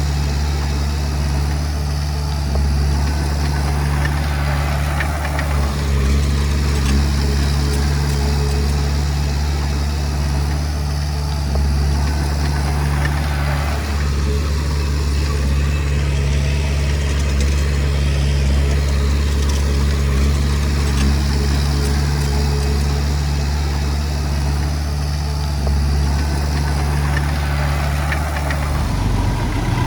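Komatsu D20P bulldozer's diesel engine running steadily under work, its note changing about a second before the end.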